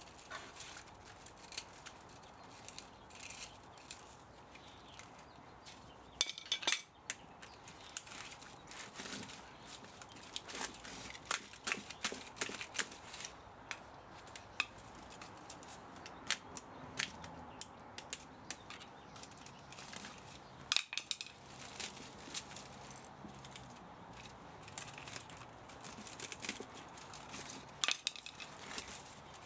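Irregular metallic clinks, knocks and scrapes of hand tools and metal parts being worked while an old electric spa motor is taken apart for scrap copper and aluminum. There is a quick cluster of louder knocks about six seconds in.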